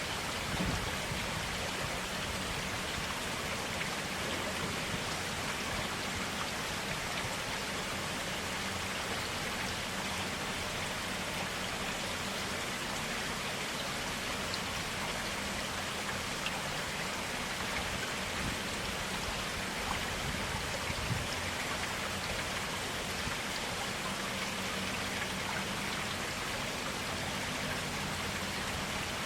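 Forest stream running steadily, a continuous, even rush of flowing water.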